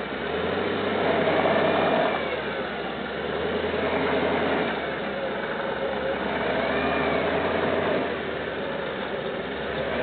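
GAZ-66 V8 petrol engine in a UAZ revving up and dropping back in about three surges, as the driver works the throttle off-road.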